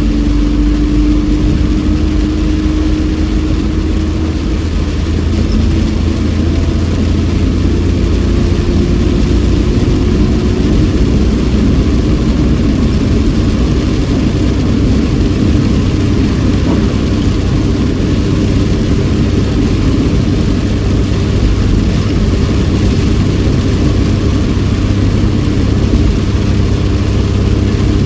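Inside a moving car's cabin in heavy rain: the engine runs steadily under a constant rush of tyre, road and rain noise, its note rising slowly over the first ten seconds or so.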